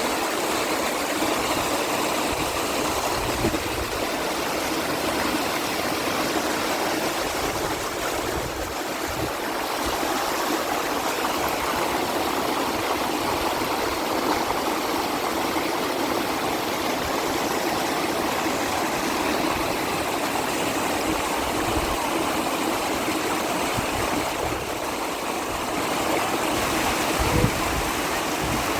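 Steady rushing of flowing water from a stream, an even, unbroken sound.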